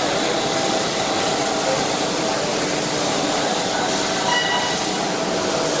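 Welding arc running with a steady hiss.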